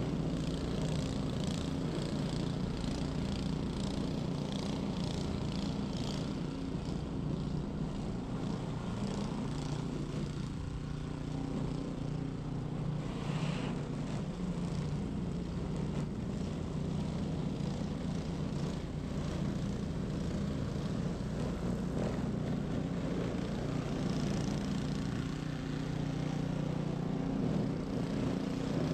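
Ariens 21-inch professional snow blower engine running steadily under load, with short scratchy sounds over the first several seconds.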